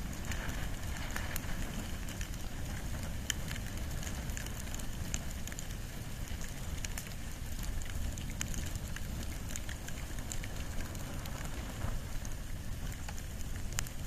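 Wood and bamboo fire burning: a steady low rush of flame with scattered, irregular sharp crackles.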